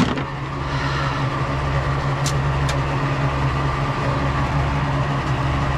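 A steady, unchanging low engine drone, like a motor vehicle idling, with two light clicks a few seconds in.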